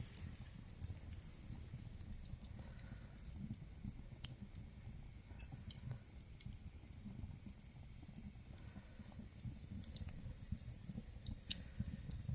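Wood fire burning in a fireplace, crackling with irregular sharp pops over a low rumble of the flames.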